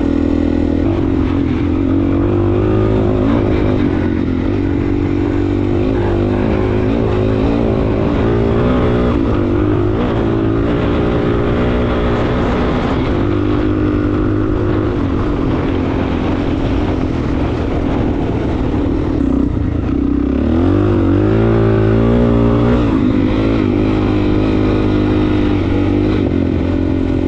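Suzuki DR-Z400S single-cylinder four-stroke dirt bike engine running under load on a trail ride, its revs rising and falling with the throttle and climbing strongly for a couple of seconds near the end.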